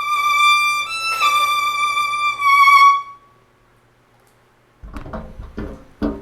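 Violin playing long, high bowed notes with vibrato: a held note, a brief step up about a second in, then back down and held until it stops about three seconds in. A few short knocks and handling sounds follow near the end.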